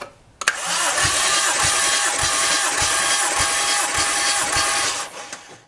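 A starter motor cranks a Toyota 1JZ-GTE inline-six for a compression test, with no firing. A click sounds about half a second in as the cranking starts. Low compression pulses come about every 0.6 s over the whirr, and the cranking winds down and stops near the end.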